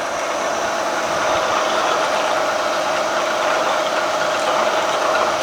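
Milling machine spindle running with a twist drill cutting into the hardened steel of a crankshaft counterweight, boring the hole for a Mallory heavy-metal slug in crankshaft balancing. A steady machine hum with a grinding, rattling cutting noise, building slightly in the first second and then even.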